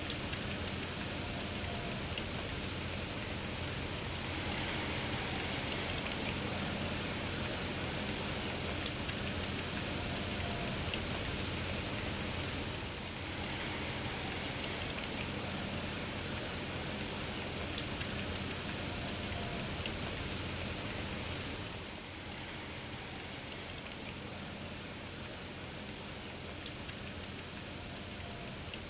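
Steady rain falling, with a few sharp, louder drop hits about every nine seconds; the rain eases slightly about three quarters of the way through.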